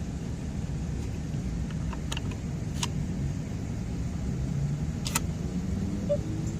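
Car engine idling with a steady low rumble. Three short sharp clicks come about two, three and five seconds in.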